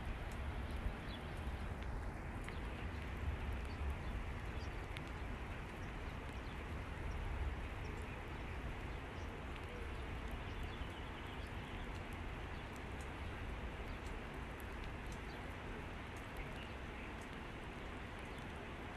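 Steady rushing noise of rain and running floodwater, with a low rumble in the first several seconds that then eases.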